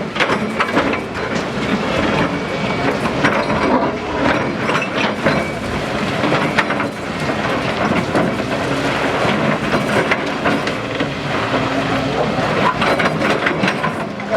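Demolition noise: a dense, continuous clatter of knocks and scrapes over a steady rumble.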